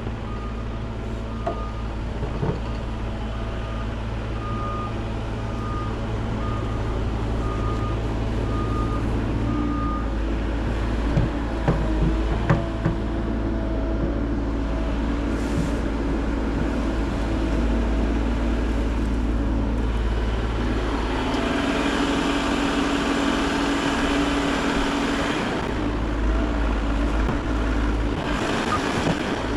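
Bobcat E50 compact excavator's engine running steadily while it moves snow, its travel alarm beeping in an even series for the first several seconds. A few sharp clanks come about halfway through, and the engine works harder near the end.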